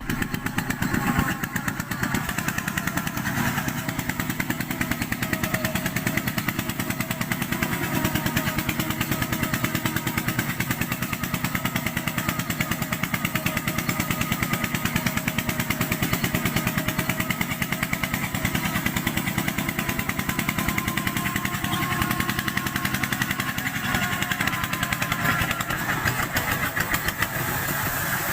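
Small Kubota tractor's diesel engine running steadily, with an even, rapid chugging pulse.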